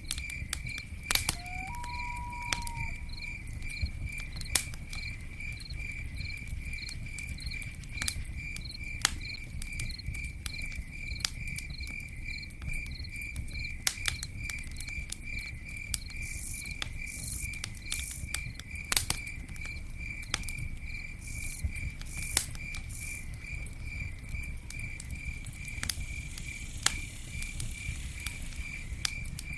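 Campfire crackling with scattered sharp pops over a low steady rumble, while an insect chirps in an even, continuous rhythm. A short whistled note sounds about a second in.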